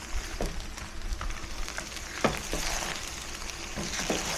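Fried rice sizzling steadily in a hot pan, with a few light knocks.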